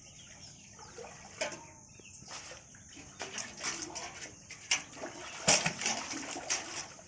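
Water splashing and sloshing in irregular bursts over a steady hiss, busier and louder in the second half.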